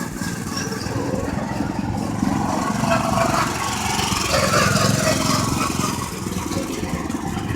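Go-karts running around a track: a steady drone of small engines.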